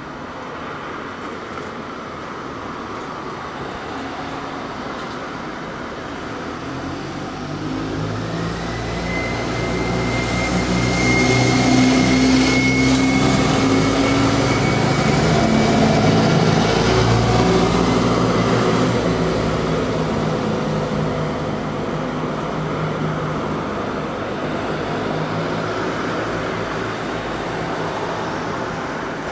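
A train passing out of sight, swelling to a peak a few seconds in and slowly fading, with a steady high whine during the loudest part.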